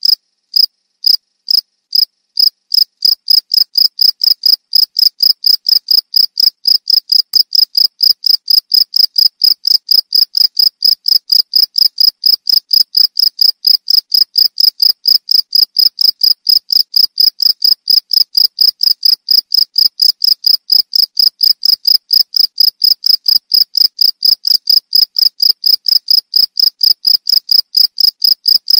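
A cricket chirping: a steady run of short, high chirps, about three a second, spaced a little wider in the first couple of seconds.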